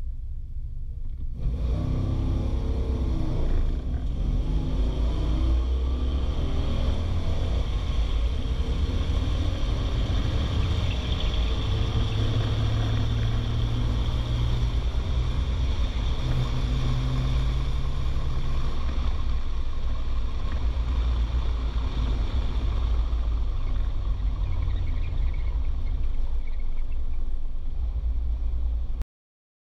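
A 1964 Studebaker Daytona's V8 heard from inside the cabin on a drag-strip pass. The engine comes in hard after about a second and a half, rising in pitch as it accelerates, then runs loud and steady at high revs down the track. It eases off for the last third, and the sound cuts off abruptly just before the end.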